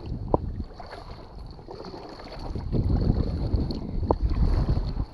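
Low, uneven rumble of wind and handling noise on a microphone aboard a kayak, louder in the second half, with two sharp knocks: one near the start and one about four seconds in.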